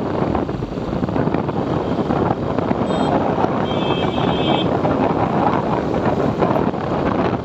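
Wind rushing over the microphone of a moving motorcycle, with engine and road noise underneath. A short high-pitched tone sounds about halfway through, lasting roughly a second.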